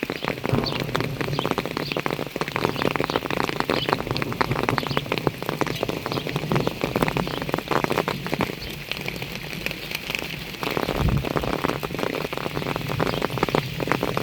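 Heavy rain falling, a dense, irregular patter of raindrops hitting an umbrella close overhead. A brief low thud comes about three quarters of the way through.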